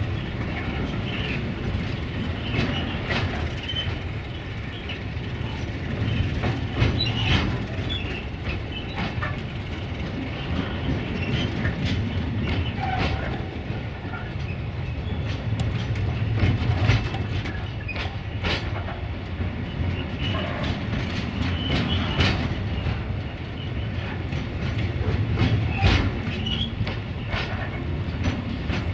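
Intermodal freight train of pocket wagons carrying semi-trailers rolling past: a steady rumble, with the wheels clicking irregularly over the rail joints.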